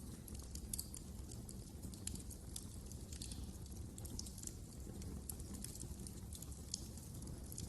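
Wood fire crackling, with many irregular sharp snaps and pops over a low steady rumble of burning.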